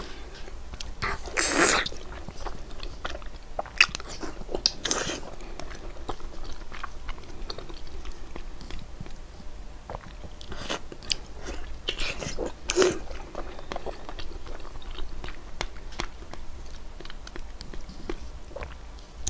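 Close-miked eating sounds of red-braised pork belly: wet biting and chewing with many small lip smacks and clicks, and a few louder mouth noises about 2, 5 and 13 seconds in.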